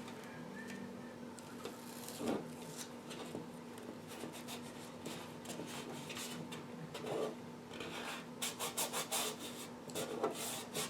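Tape being pressed and rubbed down by hand over holes in a radio chassis: soft scraping, ending in a run of quick rubbing strokes over the last few seconds. A faint steady hum lies underneath.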